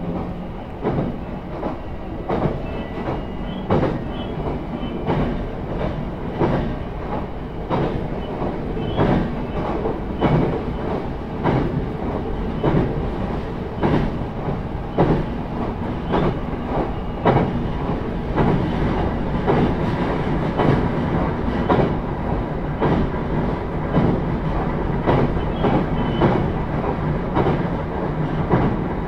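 Running sound inside a JR East E131-series electric motor car at speed: a steady low rumble with the wheels clicking over rail joints, roughly one to two clicks a second.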